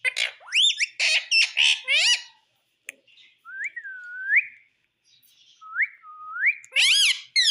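Pet parrot calling: a quick run of sharp squawks and chirps, then a few whistled notes that dip and rise, and a loud harsh call near the end.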